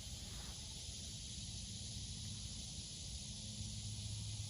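Faint, steady high-pitched chirring of insects in a field, with a low steady hum underneath.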